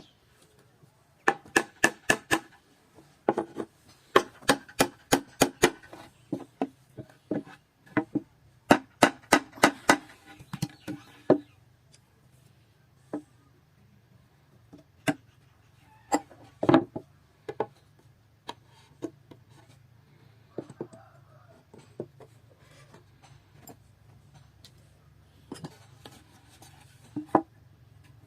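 Hammer blows on wood, several quick runs of sharp taps in the first half, then single, more widely spaced knocks, one heavier blow near the middle. A faint low hum runs underneath.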